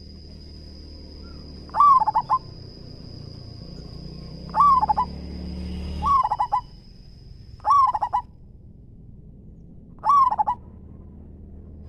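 Zebra dove cooing: five short phrases, each a quick run of stuttered cooing notes, a couple of seconds apart. A steady thin high whine runs beneath the first calls and stops about eight seconds in.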